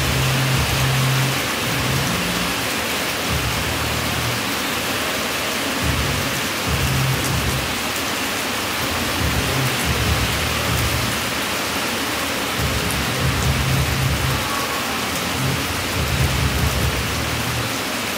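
Heavy rain pouring down in a steady, dense hiss, with low rumbles that swell and fade every few seconds.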